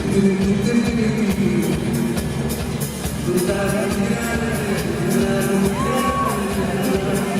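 Live pop band performing a song, with singing holding long notes over a bass line and a steady beat.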